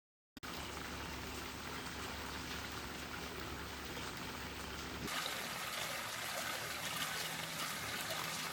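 Steady sound of running water, trickling and splashing, starting about a third of a second in. Its tone changes abruptly about five seconds in.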